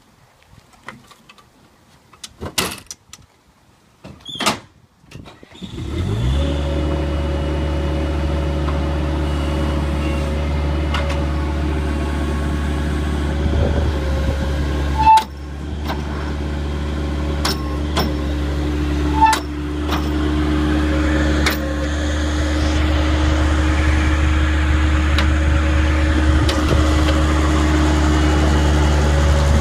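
A Bobcat skid steer's engine starts about six seconds in and then runs steadily. A few sharp clicks come through it, and it gets slightly louder later on.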